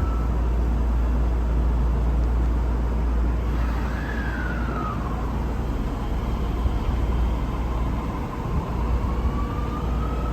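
Osaka Metro Midosuji Line subway train running, heard inside the carriage: a steady low rumble under the whine of the electric traction motors. The whine glides down about four seconds in and rises again near the end.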